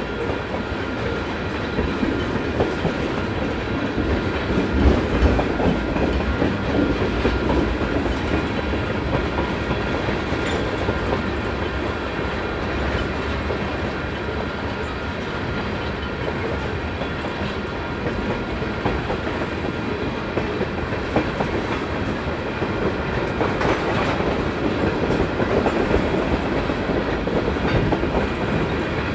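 Freight cars of a manifest train rolling past, steel wheels clacking over the rail joints in a steady, unbroken run.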